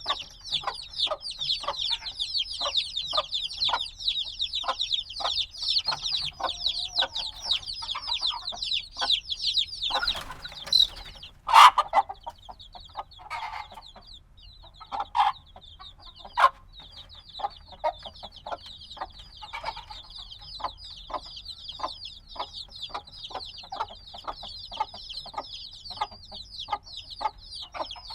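Newly hatched chicks peeping nonstop in a dense chorus of high, short, falling chirps, with many soft ticks underneath. Around the middle a few louder knocks and a brief rustle break in, and the peeping thins for a moment before filling back in.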